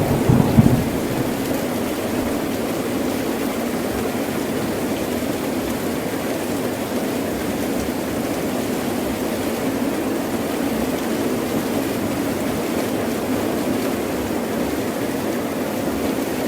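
Heavy rain falling steadily. A short rumble of thunder sounds right at the start and dies away within about a second.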